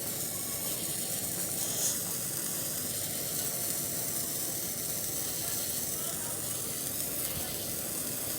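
A lit handheld sparkler fizzing and crackling steadily, with a brief louder crackle about two seconds in.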